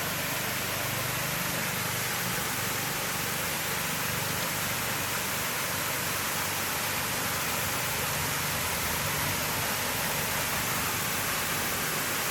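Steady rushing of a waterfall's falling water, even and unbroken.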